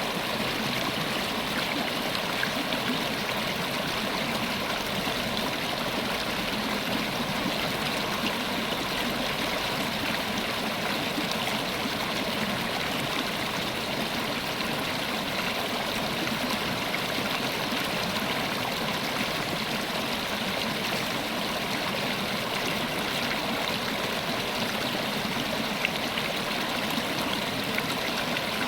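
River water flowing steadily, a constant rushing and babbling with no change in level.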